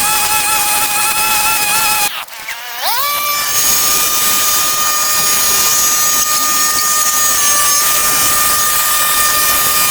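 Small two-stroke engine of a handheld power tool running at high revs. About two seconds in it briefly drops off, then revs quickly back up to a higher, steady whine that holds.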